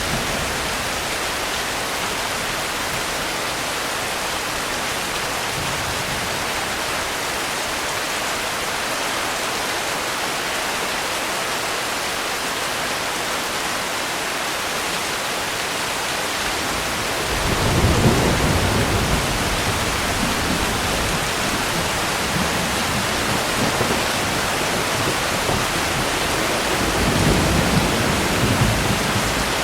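Steady heavy rain hissing, with two rolls of thunder: a low rumble swelling in a little past halfway and a second one near the end.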